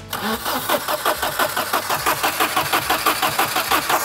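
Starter motor cranking the 1990 Volvo 740's 2.3-litre four-cylinder petrol engine over in a steady, even rhythm without it catching. The engine has been standing for ten years and is not firing.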